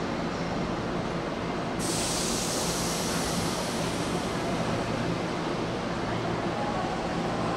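Hankyu electric train at a station platform: a steady low machine hum with several held tones, and a sudden high hiss that sets in about two seconds in and carries on, easing off after a couple of seconds.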